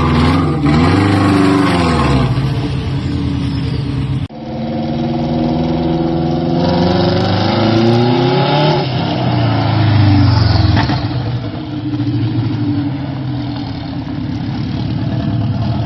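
Subaru WRX STI's turbocharged flat-four boxer engine revving hard under load, its pitch climbing and falling repeatedly, with an abrupt break about four seconds in.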